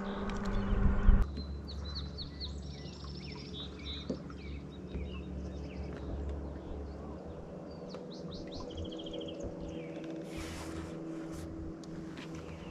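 Small birds chirping and trilling in short repeated phrases, over a low steady rumble.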